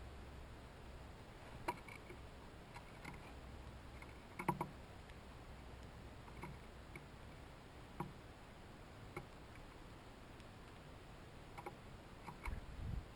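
Faint, scattered clicks and taps at a hanging seed feeder as birds and chipmunks feed. There are about a dozen at irregular intervals, the loudest about four and a half seconds in and a quick cluster near the end, over a faint low hum.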